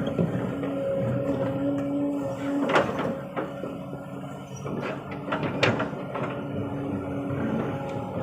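Hydraulic excavator working: its engine runs steadily under a whine that comes and goes, and it gives two sharp metallic clanks.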